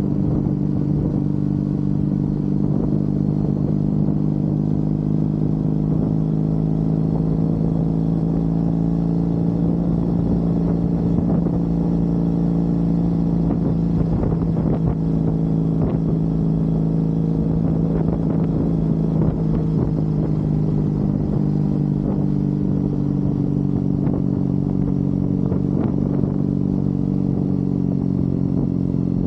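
Triumph Bonneville parallel-twin motorcycle engine running at a steady cruise, holding an even pitch.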